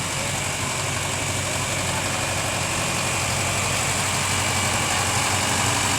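Farm tractor engine running steadily at low revs, growing slowly louder.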